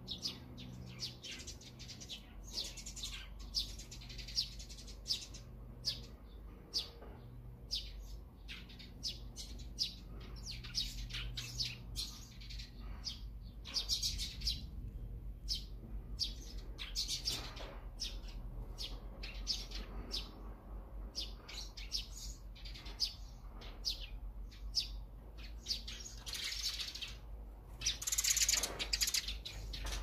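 Small songbirds chirping in quick, short, high calls, on and off throughout, with a louder flurry of chirps near the end, over a faint steady low hum.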